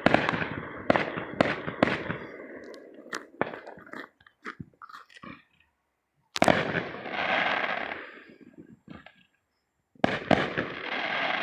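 Fireworks going off: a quick run of sharp bangs, then scattered smaller pops. Two louder bangs come about six and ten seconds in, and each is followed by a crackling hiss lasting about two seconds.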